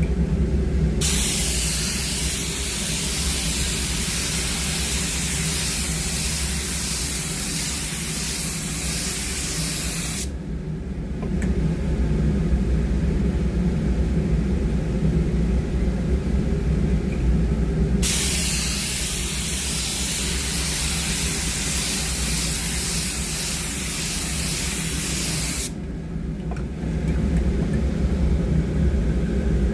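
Compressed-air paint spray gun hissing in two long passes: the first starts about a second in and lasts about nine seconds, the second starts about two-thirds of the way through and lasts about seven seconds. A steady low machine hum runs underneath.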